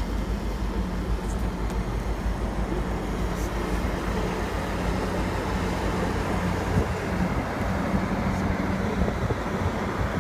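Long freight train rolling past, a steady rumble of steel wheels on rail with a continuous low drone.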